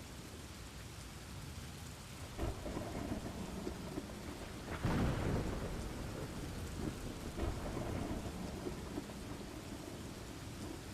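Steady rain falling, with a low rumble of thunder that swells about two seconds in, is loudest around the middle, then fades back into the rain.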